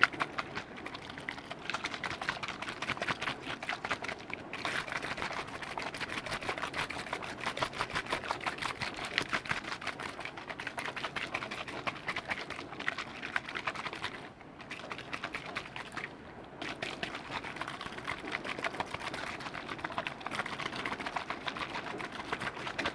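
Close-up ASMR liquid sounds: a rapid, dense crackle of small clicks, like fizzing or squelching liquid, that runs on steadily and stops briefly three times.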